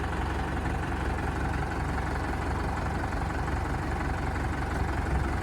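Tractor's diesel engine running steadily with a low, even hum.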